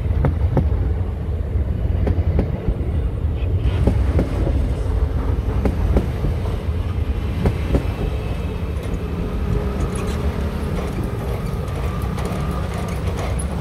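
Passenger train passing close by over a level crossing: a steady rumble with wheels clicking over rail joints. The clicks thin out in the later seconds as the last cars go by.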